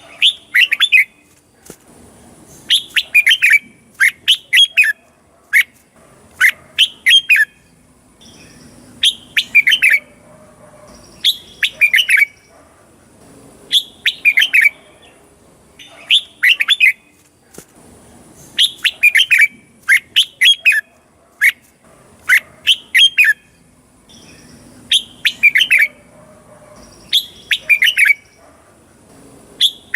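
Red-whiskered bulbul singing: short phrases of quick, bright notes, repeated about every two seconds.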